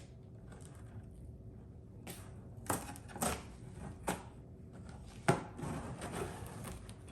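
Cardboard box being handled and opened: a few scattered sharp knocks and scrapes of cardboard and packing, the loudest a little past five seconds in.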